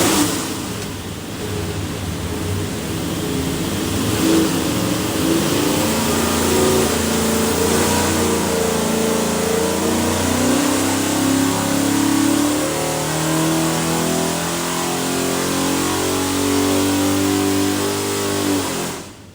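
582ci big block Chevy V8 running hard on an engine dyno during a power pull, its note shifting in pitch as the load and rpm change. It cuts off shortly before the end.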